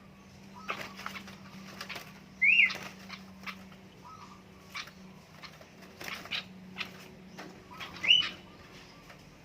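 Captive sooty-headed bulbuls fluttering and rustling, giving two sharp rising chirps several seconds apart.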